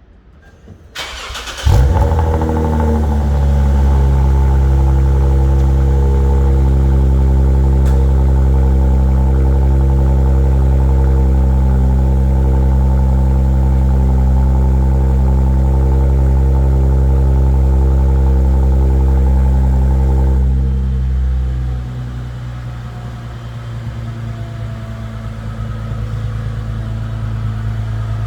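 Lexus GS350's 3.5-litre V6, fitted with an Invidia cat-back exhaust, cold-starting: a brief crank, then it catches about two seconds in and holds a loud, steady high cold-start idle. About twenty seconds in the idle drops and the exhaust note gets quieter as it settles.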